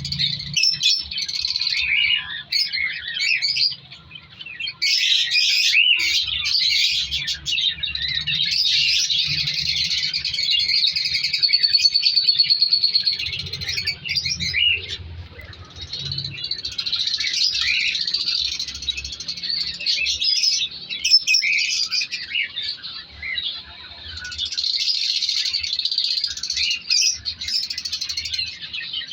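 A colony of lovebirds chattering: many overlapping high chirps and squeaks at once, with a short fast trill about twelve seconds in.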